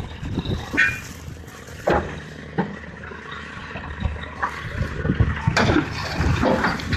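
Engine of a heavy earthmoving machine running steadily, with several sharp knocks and clanks.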